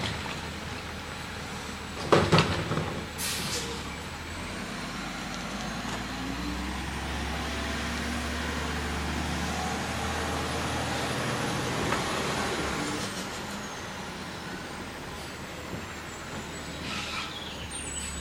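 Garbage truck working at the curb: a loud bang about two seconds in and a short hiss of air just after. The engine then rises to a steadier, higher run for about ten seconds, with a thin high whine that climbs, holds and falls away, then settles back to idle. A few lighter knocks come near the end.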